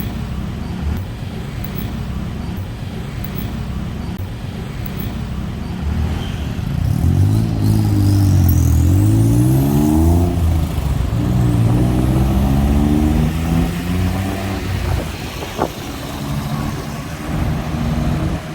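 Street traffic rumble, with a motor vehicle engine accelerating from about seven seconds in: its pitch rises, drops at a gear change and rises again, loudest around the middle.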